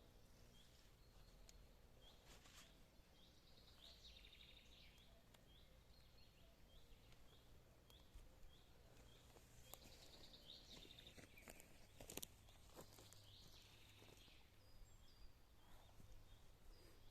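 Near silence with faint birdsong: short chirps repeated over and over, a few brief trills, and an occasional sharp click, the loudest about twelve seconds in.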